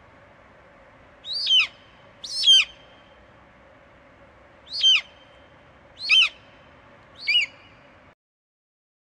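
Golden eagle giving five short, high calls that slide down in pitch, spaced one to two seconds apart, over a faint steady hiss; the sound cuts off about a second before the end.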